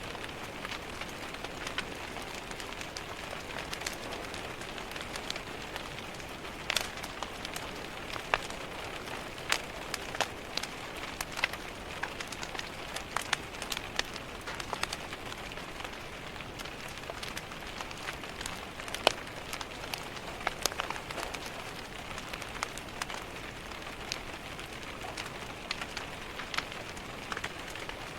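Steady rain hiss with irregular sharp crackles and pops from a wood fire in a fireplace.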